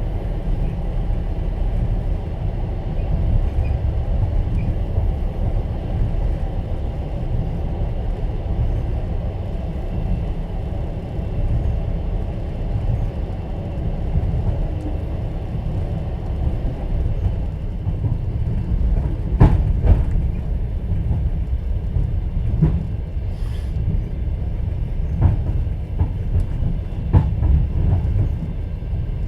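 Steady low rumble of a moving passenger train heard from inside an open-plan sleeper carriage. From about two-thirds of the way in, a few sharp, irregularly spaced knocks of the wheels over the rail joints.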